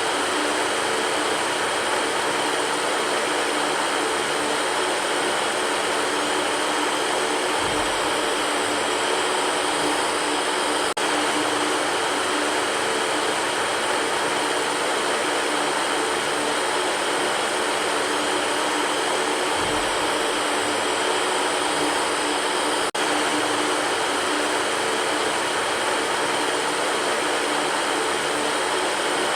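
Electric fan running steadily: an even rush of air with a faint motor hum underneath. Twice the sound dips for an instant.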